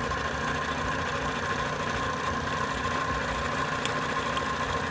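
Milling machine running steadily, its cutter coping a 4130 chromoly steel tube in small passes: an even hum with a constant whine.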